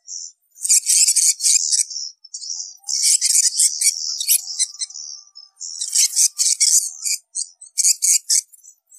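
Edible-nest swiftlets twittering: dense, high-pitched chirping in four bursts of one to three seconds with short gaps between them. It is a swiftlet call of the kind played to lure swiftlets into a swiftlet house.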